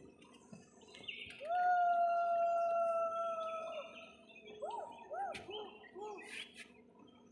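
A bird calling: one long, steady whistled note lasting about two seconds, then four short whistled notes that rise and fall, each bending up and back down.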